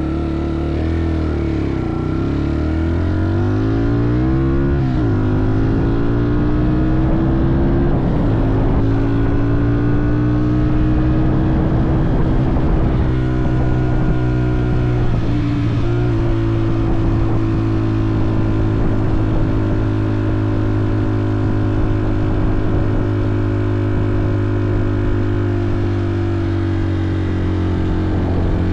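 Off-road motorcycle engine running under way, its pitch dropping and climbing again several times in the first half as the throttle and gears change, then holding a steady drone.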